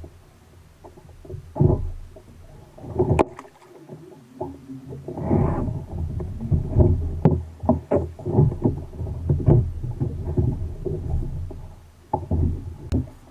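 Irregular knocks and bumps on a fishing kayak, busier from about five seconds in.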